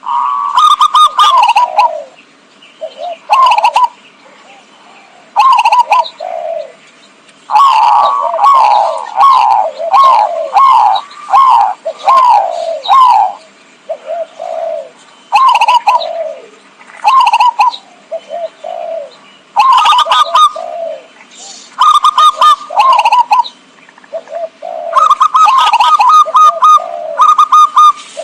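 Zebra doves (perkutut) cooing: loud bursts of quick, falling staccato coos repeated every second or two, used as a lure call to attract wild zebra doves.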